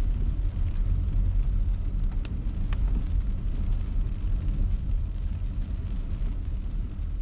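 Car driving in rain: a steady low rumble of road and engine noise with a hiss of rain and wet tyres over it. Two brief ticks come a little over two seconds in, about half a second apart.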